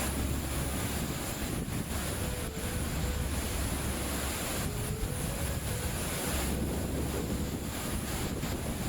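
Strong storm wind gusting, buffeting the microphone with a low rumble that surges and eases.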